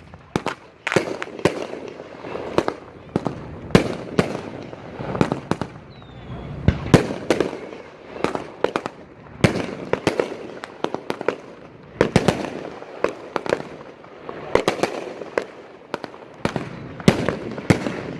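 A consumer firework cake firing shot after shot: sharp bangs about two a second, with crackle and rumble between the reports.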